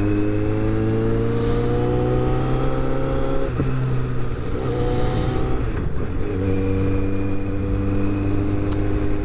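Motorcycle engine pulling under acceleration. Its pitch climbs, drops at an upshift about three and a half seconds in, climbs again and drops at a second shift about six seconds in, then holds steady at cruising speed.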